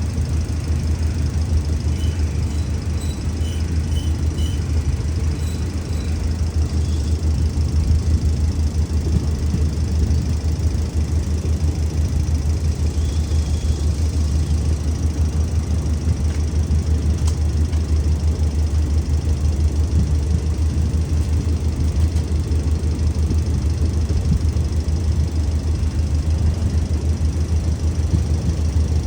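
Diesel-electric locomotive engine running steadily at idle, a continuous low rumble.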